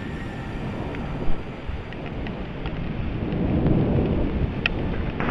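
Thunder rumbling over a steady hiss of rain, the rumble swelling about three seconds in. A sharp click comes just over a second in, with a few fainter ones scattered through.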